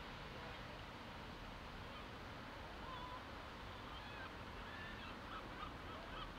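Faint, scattered bird calls, short chirps starting about three seconds in, over a steady hiss of outdoor background noise.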